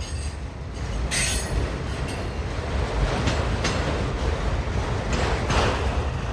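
A long train's railcars rolling slowly past, a steady rumble of wheels on rail with harsh screeching from the wheels about a second in, around three seconds and again near the end. It is the kind of sound the railfan calls bad.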